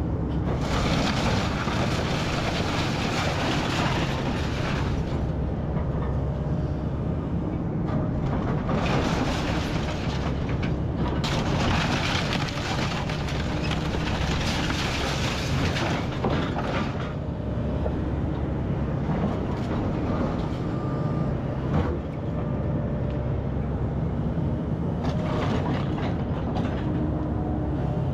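Excavator's diesel engine running steadily under load, with several stretches of louder, rough crunching and scraping noise over it.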